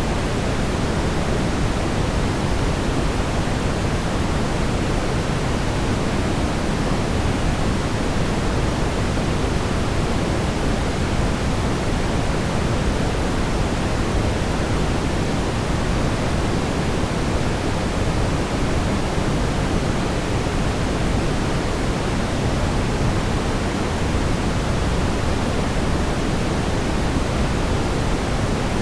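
Steady brown noise: a constant, even rumbling hiss, heaviest in the low end and falling off toward the highs, unchanging throughout.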